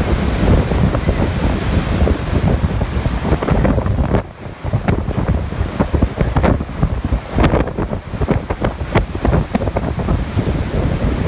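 Typhoon wind gusting hard and buffeting the microphone, a loud rough rumble with a brief lull about four seconds in.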